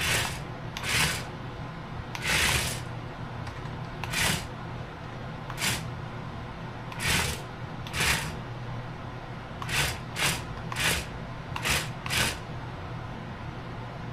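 Small battery-powered RC stunt car running, its electric motors giving a steady low buzz, broken by a dozen or so short rasping bursts, about half a second each, at uneven intervals.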